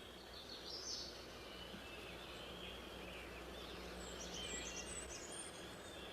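Faint woodland ambience: scattered distant bird chirps and short calls over a low steady hiss.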